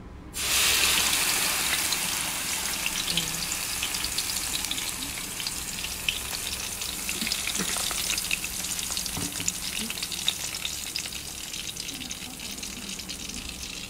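Blended paste of shallots, garlic and fresh turmeric poured into hot oil in a pan, starting with a sudden loud sizzle about half a second in. It goes on frying steadily with crackling: the paste being sautéed (tumis) as the base of a gravy.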